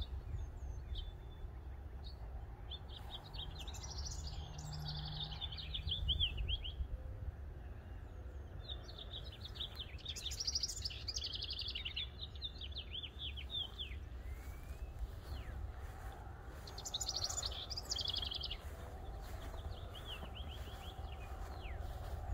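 Songbirds singing in bursts of quick chirps and trills, four phrases a few seconds apart, over a low steady rumble.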